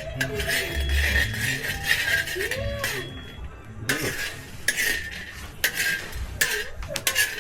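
Coffee beans being stirred by hand in a roasting pan over the fire, scraping and rattling against the pan in repeated uneven strokes.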